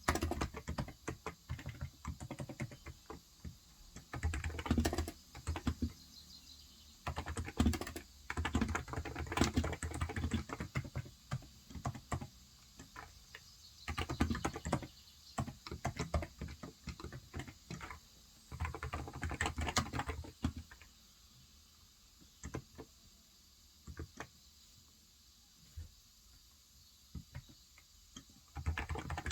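Typing on a Cox Endeavor tenkeyless electrostatic capacitive keyboard with 35 g switches. The keystrokes come in quick runs with short pauses between them for the first two-thirds, then only occasional single key presses until a new run starts near the end.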